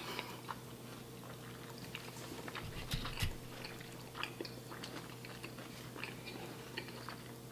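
Two people chewing soft chicken street tacos in flour tortillas, with quiet wet mouth clicks and smacks scattered throughout, and a slightly louder low thump about three seconds in. A low steady hum sits underneath.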